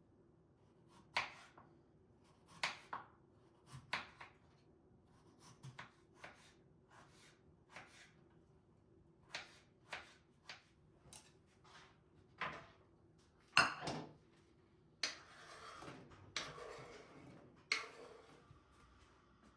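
Kitchen handling sounds: a series of light knocks and clinks of dishes, cutlery and a drawer or cupboard being handled, with one louder knock about two-thirds of the way in, followed by a few seconds of steady rustling noise near the end.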